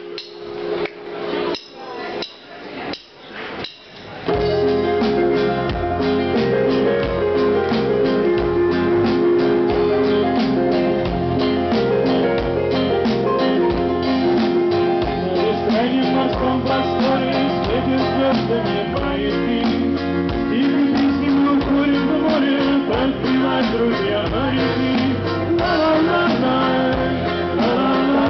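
Live band music: a few sharp hits over the first seconds, then about four seconds in the full band comes in, with bass, drums, guitar and singing.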